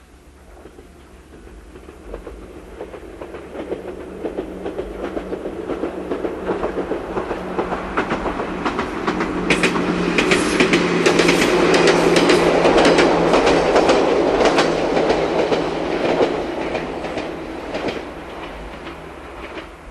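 An Ichibata Electric Railway electric train passing: its running noise grows steadily louder, peaks with a rapid clickety-clack of wheels over the rail joints and a steady motor hum, then fades away over the last few seconds.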